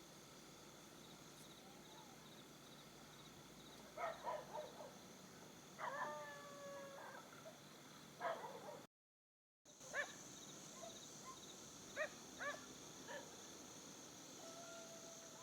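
Faint dog barks, a handful of short ones and one longer drawn-out yelp about six seconds in, over a steady high chirring of insects. The sound drops out for a moment about nine seconds in.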